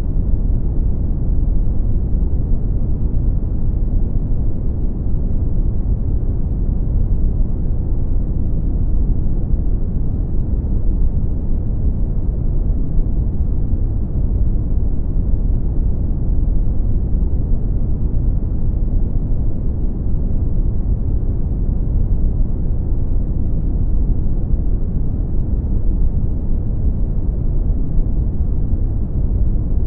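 Brown noise: a steady, deep rumbling hiss, loudest in the bass and dying away in the upper range, unchanging throughout.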